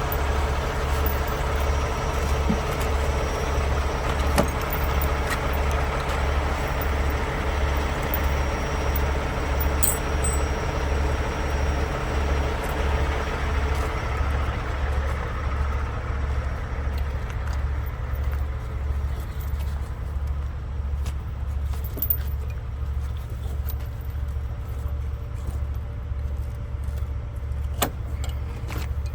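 Heavy logging truck under way, its diesel engine a steady low drone with an even pulse, along with a few light clicks and rattles. The higher road and engine noise eases off about halfway through.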